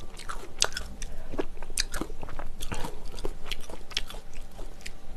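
A person chewing and eating close to the microphone: many short mouth clicks and smacks at an irregular pace.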